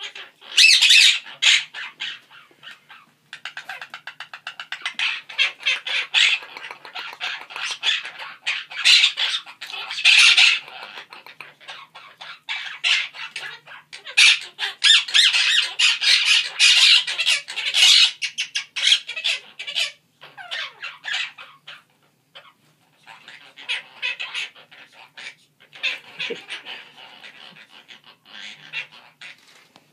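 Quaker parrots (monk parakeets) chattering and squawking in rapid strings of harsh calls, pausing briefly about 3 seconds in and again around two-thirds of the way through.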